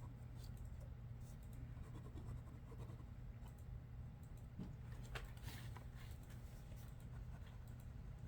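Faint scratching strokes of sketching on paper, irregular, a little stronger around the middle, over a steady low hum of room equipment.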